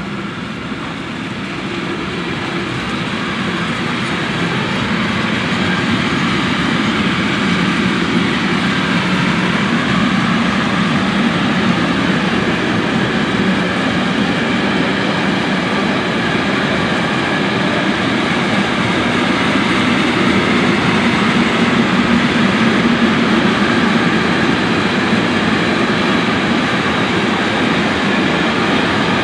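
Container freight train's wagons rolling past, a continuous noise of steel wheels on the rails. It grows louder over the first several seconds and then holds steady.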